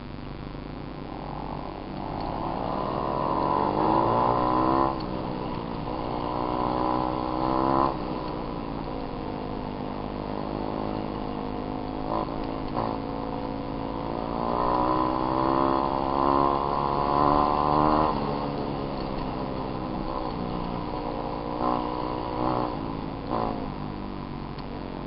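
Small single-cylinder dirt bike engine being revved up and down. It climbs from a low idle about two seconds in, drops sharply, revs again, runs steadily for a while, then revs up and holds high again before falling back toward idle near the end.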